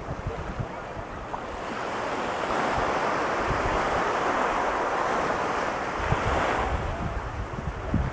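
Pacific Ocean surf: a wave breaks and washes up the beach, swelling from about a second and a half in and easing after about six seconds. Wind buffets the microphone in low gusts, mostly at the start and near the end.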